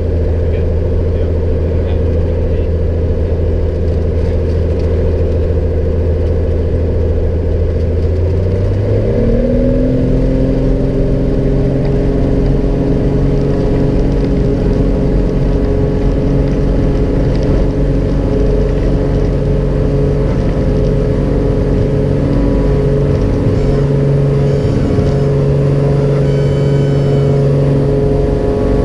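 Cessna 185's six-cylinder engine and propeller running steadily. About nine seconds in, the pitch rises quickly as power comes up for the takeoff, then holds steady at the higher pitch.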